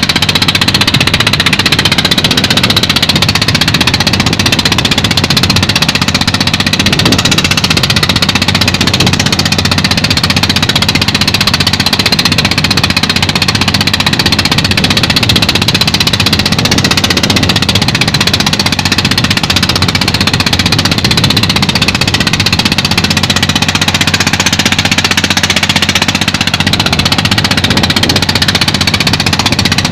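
Fishing boat's engine running steadily, loud and close.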